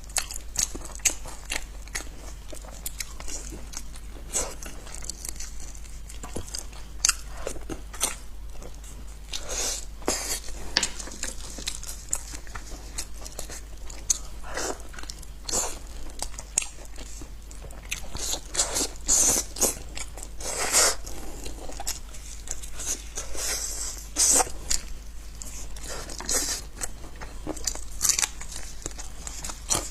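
Close-miked eating of meat: irregular biting, crunching and chewing with many sharp wet clicks, over a steady low hum.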